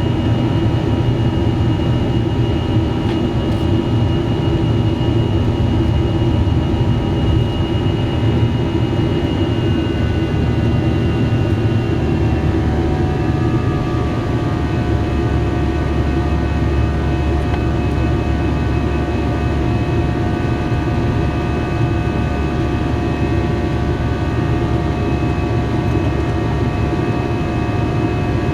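Airbus A321 cabin noise heard from the front row: a steady roar of jet engines and airflow with several engine tones running through it. About a third of the way in, the tones slide a little lower and then hold steady, a change in engine power.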